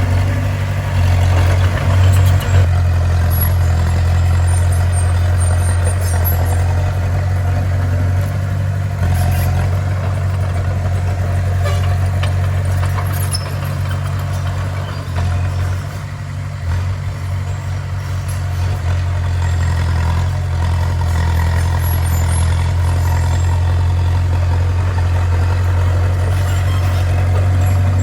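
Bulldozer's diesel engine running steadily with a deep, even drone that dips slightly about halfway through.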